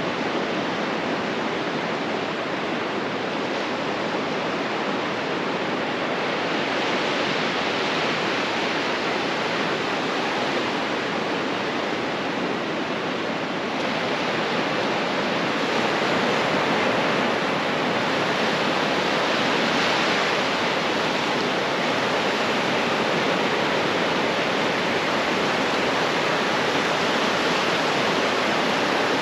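Ocean surf on a beach, a steady rush of breaking waves that swells gently a few times.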